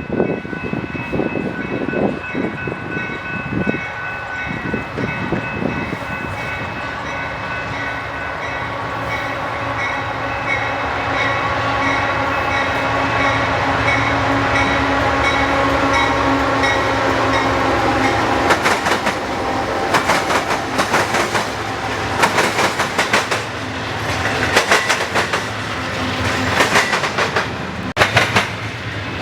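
A train passing close by. A steady chord of horn-like tones sounds through the first part, then the cars' wheels clack rhythmically over the rail joints from about two-thirds of the way in.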